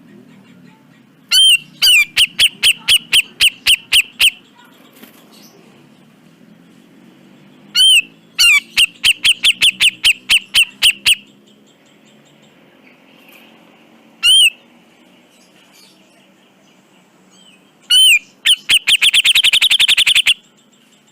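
Grey-cheeked bulbul (cucak jenggot) calling in loud series of sharp, repeated arched notes, about four a second, with one lone note between the series. The last series speeds up into a fast trill.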